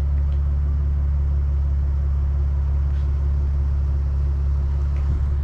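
Steady low drone of a running 2025 Honda Civic Type R, its engine humming evenly with no change in pitch.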